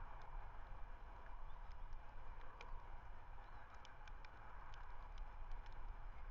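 Steady wind rumble on an outdoor webcam microphone, with a continuous hiss and many short, sharp high ticks scattered through.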